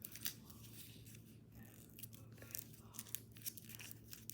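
Sheet of folding paper crinkling and rustling in the hands as it is pressed and shaped into folds, a run of faint irregular crackles.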